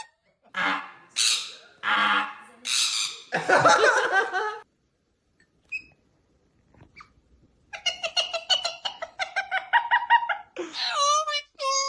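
Pet parrot vocalising: five raspy squawks in the first few seconds, a pause, then a fast run of short pitched notes in imitation of laughter, ending in higher, bending calls.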